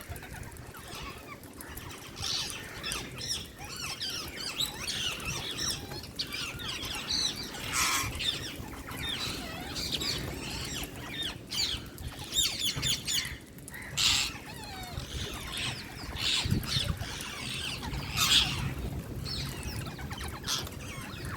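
Indian green parakeets chirping and squawking, many short calls overlapping, with a few louder squawks standing out now and then.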